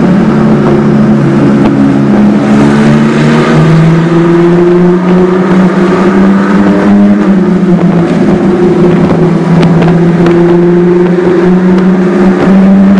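Nissan GT-R R35's twin-turbo 3.8-litre V6 sounding through an Armytrix aftermarket exhaust, running loud at steady mid revs with the pitch drifting slowly up and down.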